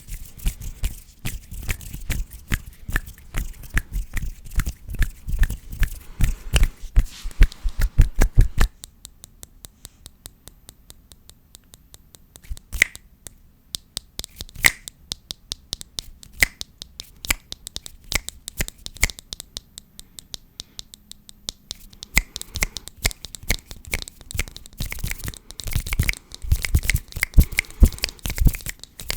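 ASMR hand sounds close to the microphone: hands rubbing, brushing and tapping fast in a dense stream of rustles and clicks, with low thumps from the hands moving near the mic. About nine seconds in it drops to a quiet stretch of sparse light taps, then the fast rubbing picks up again about two seconds after the twenty-second mark.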